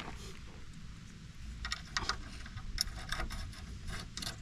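Scattered light clicks and taps from hand work on a bent metal part of a stump grinder, starting about a second and a half in, over a low steady rumble.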